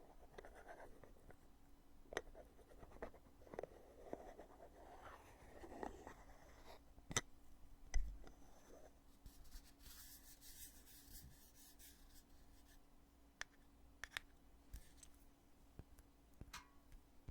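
The lid of a foundation container being handled, opened and shut: faint clicks and soft rubbing, a sharp click about seven seconds in followed by a dull thump, then a short rustling scrape and a few more light clicks.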